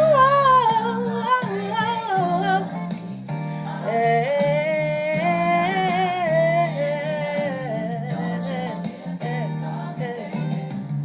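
A woman singing long, bending melismatic vocal runs over a steady, low held accompaniment.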